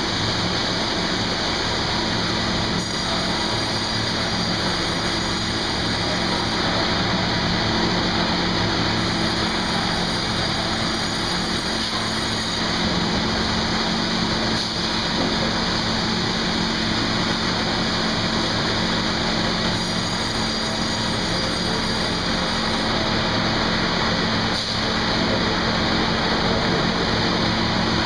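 Sawmill machinery running steadily: a loud, constant noise with a low machine hum underneath, and a few stretches of added high hiss.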